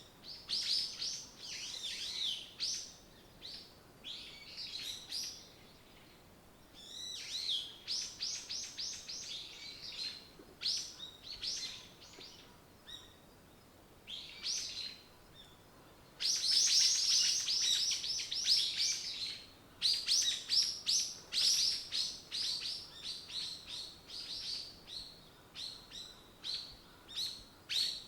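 Songbirds singing in bouts of quick, high chirps and trills, with several birds overlapping. It thickens into a dense, loud chorus about halfway through.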